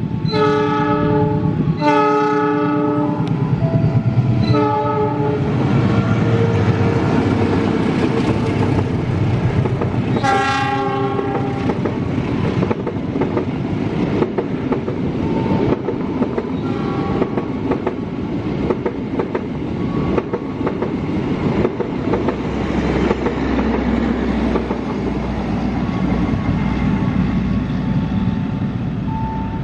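Train passing at speed: its horn sounds three blasts in the first five seconds and one more about ten seconds in, over the steady rumble and clatter of the wheels on the rails.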